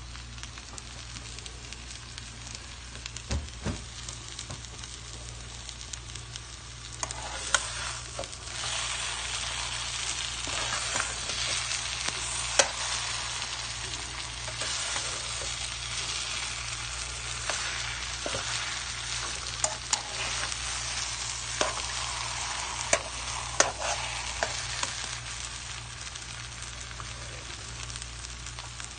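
Taro leaves and shrimp sizzling in a nonstick frying pan while being stirred with a metal spoon, the spoon clicking against the pan now and then. The sizzling gets louder about seven seconds in and eases again near the end.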